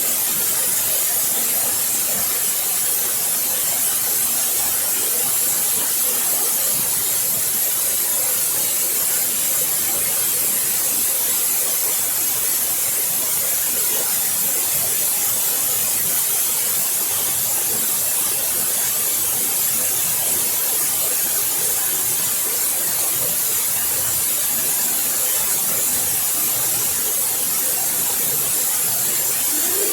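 Waterfall: falling water in a steady, even rush with a strong high hiss.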